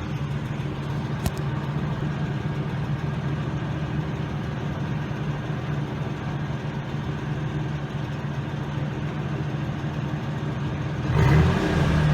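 2003 Ford F-150's 4.2-litre V6 idling steadily, heard at the exhaust, with a single click about a second in. Near the end the engine is revved briefly and gets louder.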